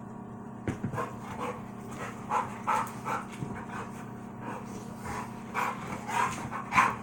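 Two dogs playing, with panting and short vocal noises in irregular bursts, the loudest near the end.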